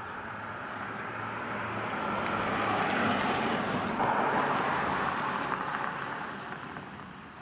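A car driving past: road and wind noise swells to a peak about halfway through, then fades away.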